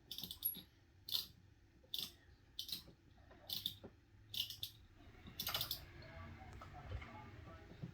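Sharp plastic clicks from a toy train set being handled, roughly one a second, with a low hum underneath.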